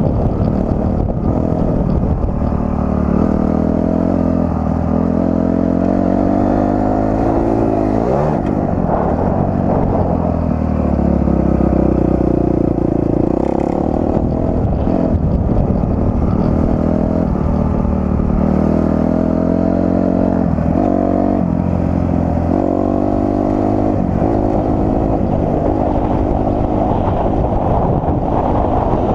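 Dirt bike engine revving up and down while riding a motocross track, its pitch climbing and dropping again and again as the throttle opens and closes. A steady wind rumble on the microphone runs underneath.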